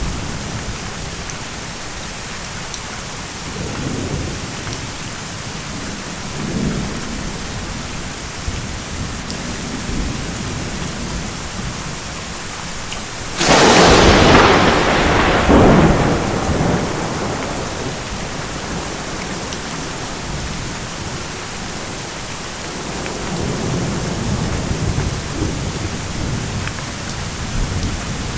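Steady rain with rolling thunder: low rumbles come and go, and about halfway through a sharp, loud thunderclap cracks and then rumbles away over a couple of seconds.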